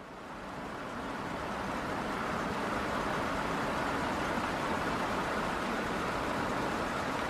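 Steady road and tyre noise of a car driving, picked up by a dashcam, fading in over the first second or two.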